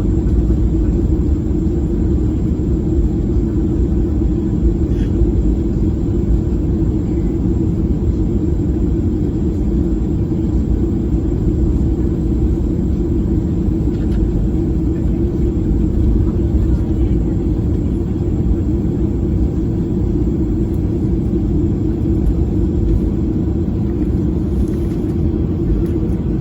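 Steady, low cabin rumble inside a Boeing 737 airliner, the drone of its engines and airflow heard from a passenger seat.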